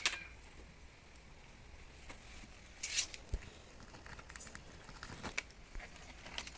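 Scattered light clicks and rustles of hands handling things, with a sharp click at the start and a short scratchy scrape about three seconds in, followed by a low knock.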